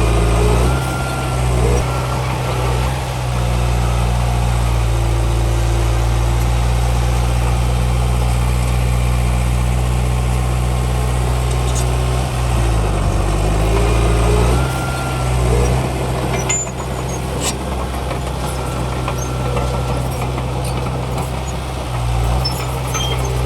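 Heavy diesel engine of earthmoving machinery running steadily. Its pitch sweeps down and back up near the start and again about halfway through, and there are a few sharp clanks a little later.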